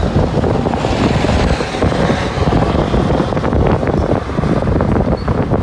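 Wind buffeting a phone's microphone: a loud, uneven low rumble.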